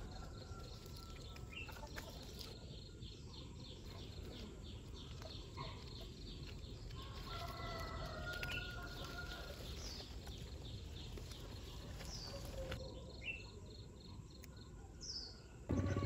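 Birds chirping outdoors: short chirps and a rapid repeated trill, with a longer call about halfway through, over a low steady background rumble. A louder, deeper sound cuts in right at the end.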